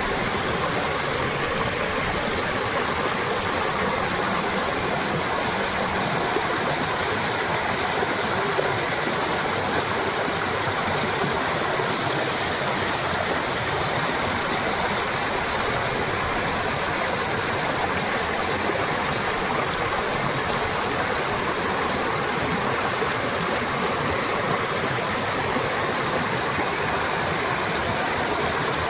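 Fast, powerful water rushing from a dam: a loud, steady, even roar of flowing water.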